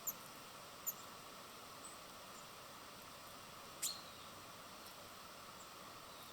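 Short, high chirps of small birds at a feeder: two quick calls near the start and a louder, sharper call about four seconds in, over faint steady background noise.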